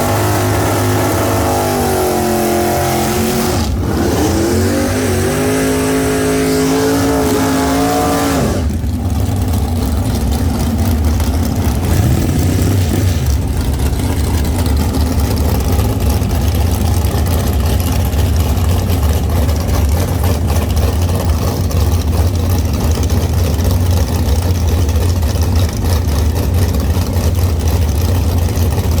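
Car engine accelerating: its pitch climbs, breaks briefly about four seconds in, and climbs again. About eight seconds in it gives way to a steady, loud low rumble.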